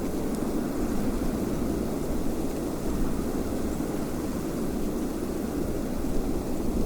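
Steady wind blowing: a low, even rushing noise without distinct gusts.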